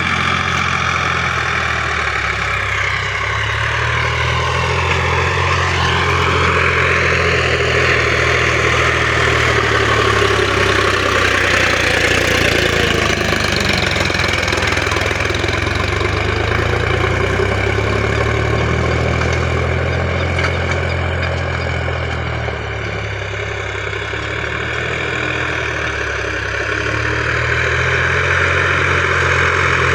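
Sonalika tractor's diesel engine running steadily, its pitch drifting slowly up and down, a little quieter for a few seconds past the middle.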